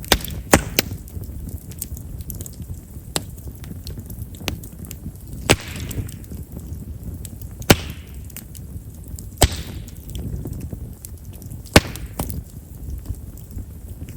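Chestnut firewood burning in an open fire: sharp crackling pops every second or two, a couple of them trailing off in a short hiss, over a low steady rumble of flame. Chestnut's large wood vessels make it a wood known for popping as it burns.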